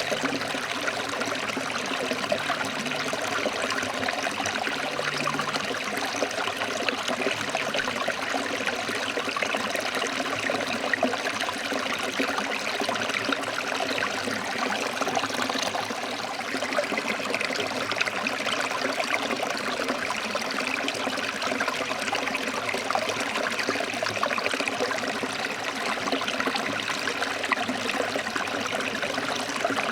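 Forest stream flowing and splashing over rocks, a steady rushing and babbling of water.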